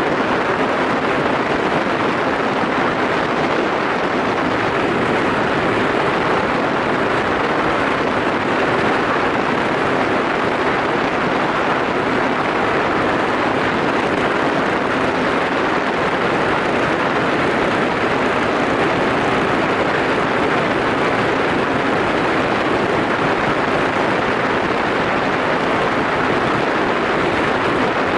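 Yamaha SRX400 single-cylinder motorcycle ridden at a steady cruising speed, the engine's tone mostly buried under a constant rush of wind and road noise that does not rise or fall.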